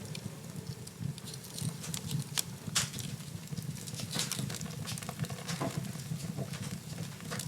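Wood fire burning in a fireplace: irregular sharp crackles and pops, the loudest a little under three seconds in, over the steady low rush of the flames.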